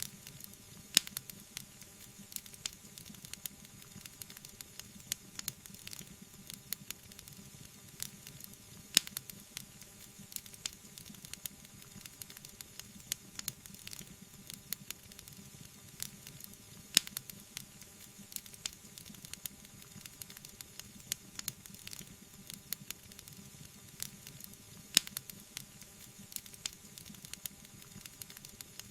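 Wood fire crackling and popping over a soft steady hiss, with a few sharp louder pops every several seconds.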